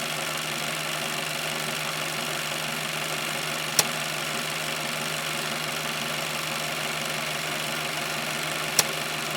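An engine idling steadily, with a sharp click about four seconds in and another about five seconds later.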